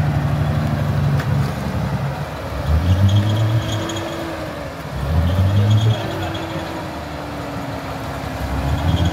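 Petrol engine of a Toyota Land Cruiser hardtop working under load as it climbs a muddy bank. The revs surge and rise in pitch twice, about three and five seconds in.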